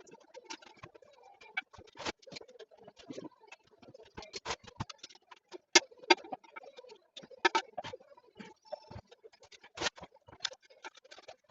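Irregular clicks and knocks of hard parts being handled while a toilet tank is worked on, several of them sharper than the rest.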